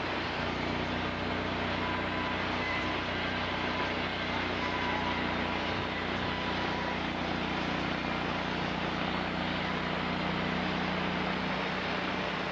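Sawmill machinery running steadily, an engine-driven hum with a constant low pitch and a steady noisy wash over it.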